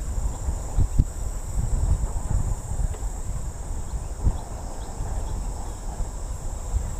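Steady high-pitched insect chorus, with wind rumbling on the microphone of a moving bicycle and a few light knocks.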